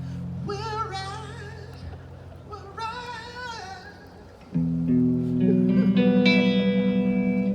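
Live unplugged song with guitar: a voice twice holds a sung note with vibrato over a sustained guitar chord. About halfway through, a louder guitar chord is struck and left ringing.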